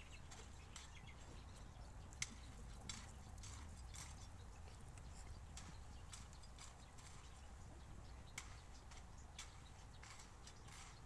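Near silence with a low steady hum and a few scattered sharp clicks or taps, the loudest about two seconds in.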